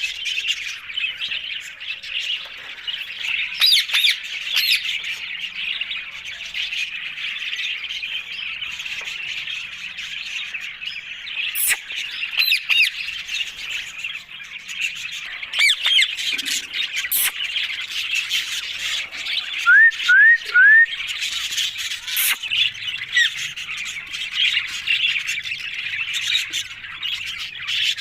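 Alexandrine parakeets squawking and chattering, many sharp calls overlapping without pause, with three loud rising squawks in quick succession about twenty seconds in.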